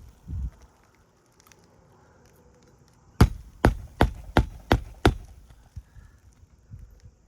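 Hammer blows on a roofing nail during an asphalt shingle repair: six quick, sharp strikes about two and a half a second, after a softer low thump near the start.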